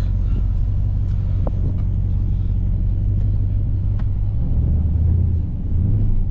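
The V8 engine of a Jeep Grand Cherokee SRT, heard from inside the cabin, running with a steady low rumble while the SUV rolls slowly down a street. The drone gets a little stronger and higher from about four and a half seconds in.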